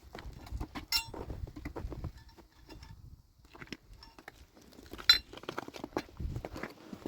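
Irregular knocks and clatter of objects being handled, with a sharp ringing clink about a second in and another, the loudest, about five seconds in.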